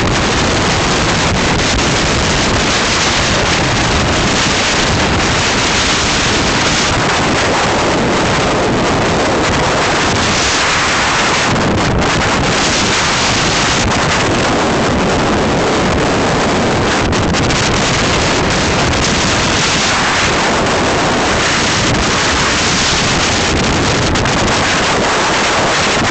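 Gale-force wind blasting across the microphone, a loud, unbroken rush of wind noise.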